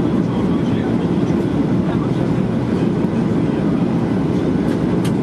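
Steady low roar inside the cabin of a Boeing 737-800 airliner in flight: engine and airflow noise.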